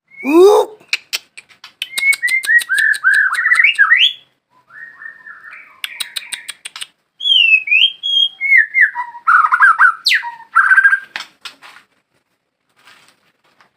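White-rumped shama singing: a varied run of loud whistled phrases with sliding notes, mixed with rapid rattling trills. There is a short lull about four and a half seconds in, and the song stops about two seconds before the end.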